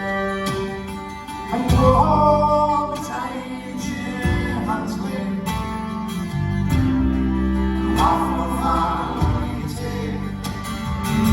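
Scottish folk band playing a ballad live, a passage with no sung words: held low notes under melodic phrases.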